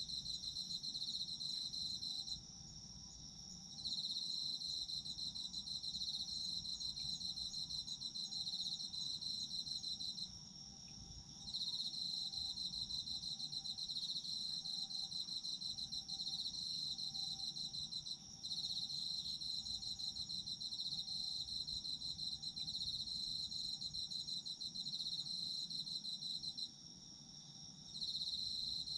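Chorus of autumn singing insects: a steady, high, unbroken ring with a pulsing trill just below it. The trill breaks off four times, for up to about a second and a half each time, while the ring carries on.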